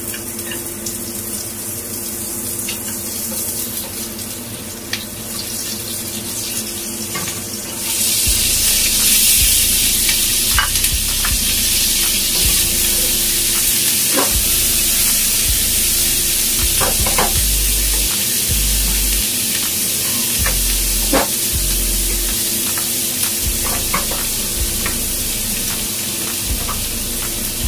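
Garlic sizzling in hot oil in a nonstick wok. About eight seconds in, the sizzle jumps louder as garlic chive flower stems go in. A spatula then clicks and scrapes against the pan as they are stir-fried.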